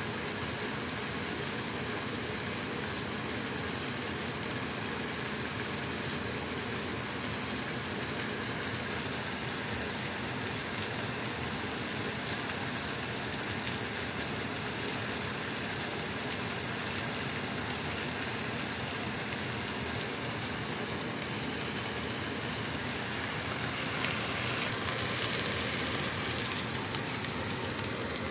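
Chicken breast, green bell pepper and onion sizzling in oil in a wok: a steady frying hiss that grows louder and brighter about 24 seconds in.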